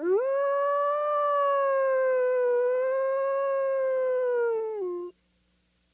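Wolf howling: one long howl that rises quickly at the start, holds a nearly steady pitch with a slight waver for about five seconds, then drops and stops abruptly.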